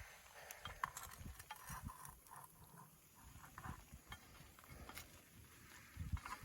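Faint, scattered knocks and clinks of a utensil as cooked chicken is moved into a camp pot of noodles and rice.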